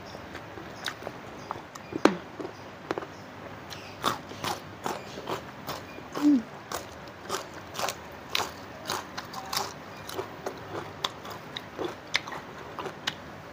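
Close-up eating sounds: crisp bites and wet chewing of raw young kencur shoots and leaves, a run of irregular crunches and mouth clicks, the sharpest about two seconds in.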